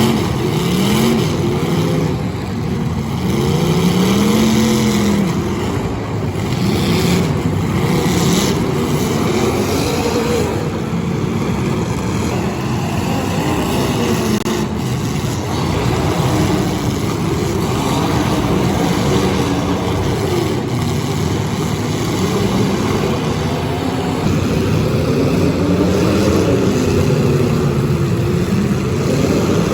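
Demolition derby cars' engines revving hard, several at once, their pitch rising and falling over a continuous din.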